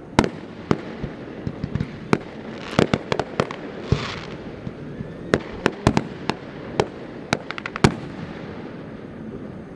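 Fireworks display bursting: an irregular series of sharp bangs, coming in quick succession from about five seconds in, with a brief crackling hiss about four seconds in.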